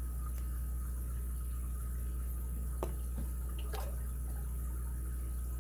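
Steady low electrical hum and hiss, with a few faint clicks and a brief scrape near the middle from a lock pick working the pins of an ABUS 83CS/55 padlock under light tension.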